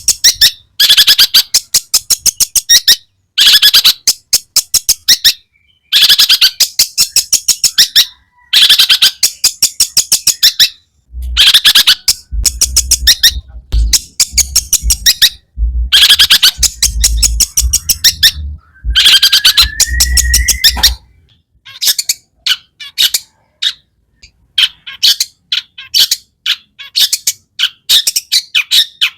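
Long-tailed shrike (cendet) singing a harsh, rapid, chattering song full of mimicked notes, in bursts of about two seconds separated by short pauses, breaking into shorter scattered notes in the last third.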